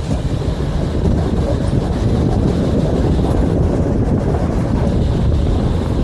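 Vario LF2R.E low-floor tram running along the track: a steady, loud rumble of wheels on rails and running gear.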